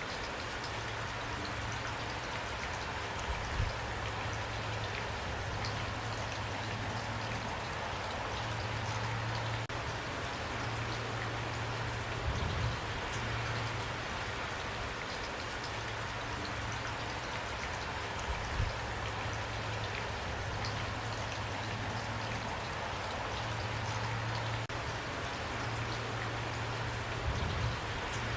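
Steady rain falling on a surface, an even hiss of many drops, with a few brief louder low thuds scattered through it.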